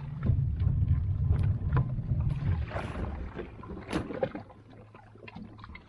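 Low rumble of wind and water around a small kayak, with scattered knocks and clicks from handling; the rumble drops off about halfway through.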